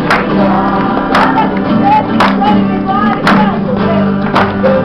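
Acoustic guitar strummed with a group singing a worship song along to it, with a sharp accent on each beat about once a second.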